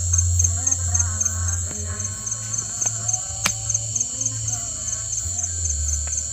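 Crickets chirping in a steady, rapidly pulsing trill over a low rumble and faint distant music, with one sharp crack about halfway through.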